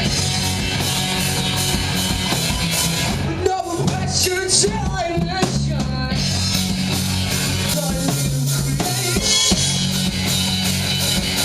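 Rock music played on a drum kit with bass and guitar, keeping a steady beat.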